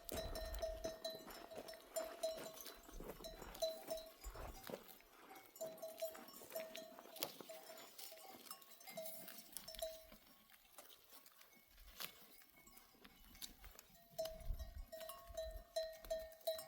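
A livestock bell on a grazing flock, clanking in quick uneven runs as the animal wearing it moves, with a lull of a few seconds past the middle before it starts again.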